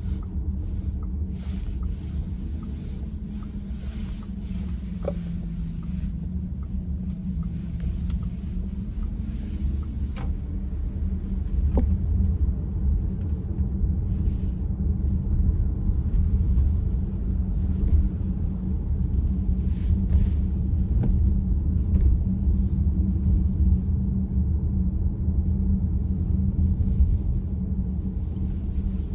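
Steady low rumble of a car heard from inside the cabin, engine and road noise, with a few faint ticks; the steering column is not making its noise here.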